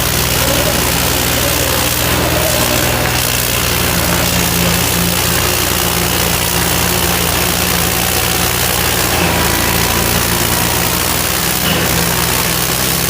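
Tractor diesel engines running steadily at an even speed.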